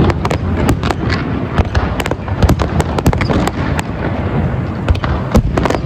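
City fireworks display bursting in rapid succession: a dense run of sharp bangs over a continuous low rumble.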